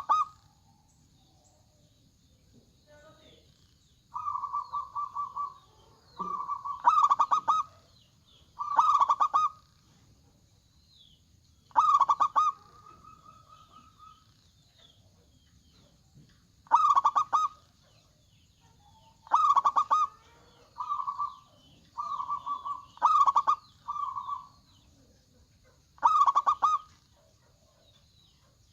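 Local zebra doves (perkutut) cooing, a dozen or so rolling, rapidly pulsed phrases repeated every one to three seconds, some short and loud, others longer and softer.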